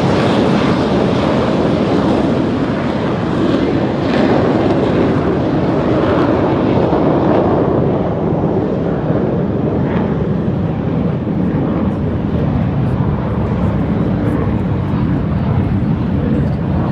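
Jet noise from BAE Hawk trainer jets flying overhead, a steady loud rush that thins out in the upper range after about eight seconds as the aircraft move away.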